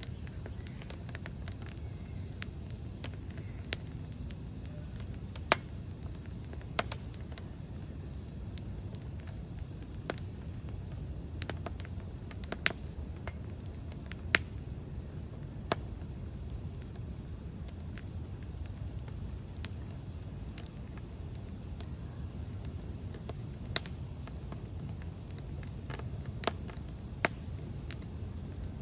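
Crickets chirping in a continuous high trill. Under it a wood campfire burns with a low rumble, and sharp crackles and pops of burning wood come at irregular moments.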